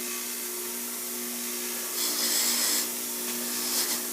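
Electric wire brush wheel running with a steady motor hum, with a louder hissing scrub when a brass coupler is pressed against it, about two seconds in and again near the end.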